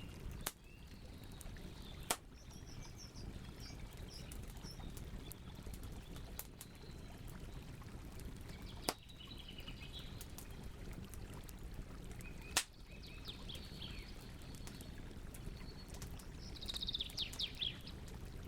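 Wood campfire burning with a steady low rush and four sharp pops, the loudest sounds, scattered through. Small birds chirp in short high phrases in the background, with a quick run of notes near the end.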